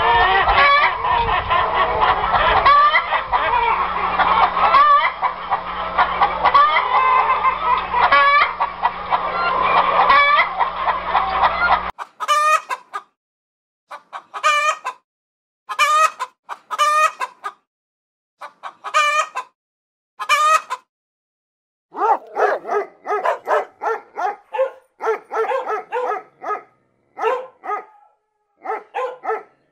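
Hens clucking steadily while foraging, over a low hum. About twelve seconds in this gives way to a rooster giving short calls every second or so, with silence between them. From about twenty-two seconds a dog barks in quick runs.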